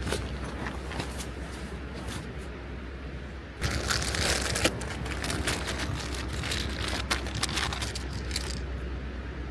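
Crinkly material being handled and rustled, with scattered clicks and a louder burst of crinkling about four seconds in, over a steady low rumble.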